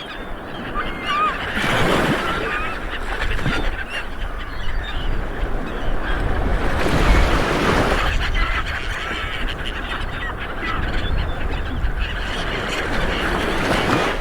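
Light waves breaking on a beach, with swells of surf about two seconds in and again around seven to eight seconds in, and many short bird calls over the wash of the water.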